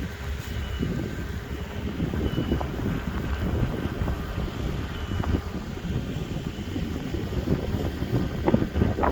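Steady low rumble of wind buffeting the microphone, with scattered short knocks and a faint high tone that comes and goes.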